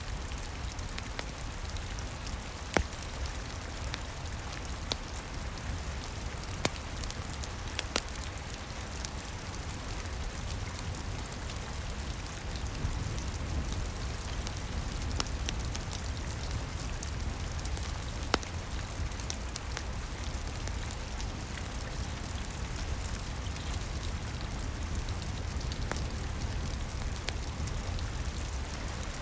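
Steady rain pattering over a low rumble, with a few sharp crackles and pops from a wood fire, the loudest about three, seven, eight and eighteen seconds in.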